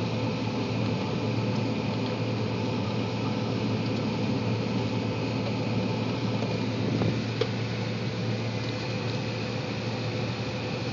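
Steady drone of a John Deere 9770 STS combine harvester working, heard from inside its cab: an even low hum with machinery noise over it and a faint tick or two.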